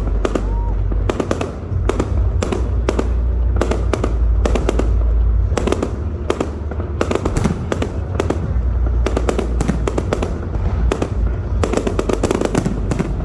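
Fireworks going off: a quick, irregular string of sharp cracks and bangs, several a second, over a continuous deep rumble.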